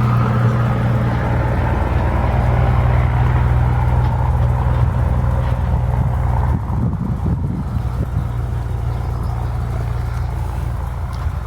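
An engine running steadily at constant speed, a low even hum that eases off near the end.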